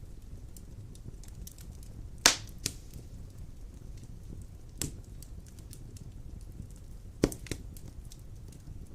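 Wood fire burning in a fireplace: a steady low rumble of flames with scattered faint crackles and a few loud sharp pops of the burning logs, the loudest about two seconds in and another about seven seconds in.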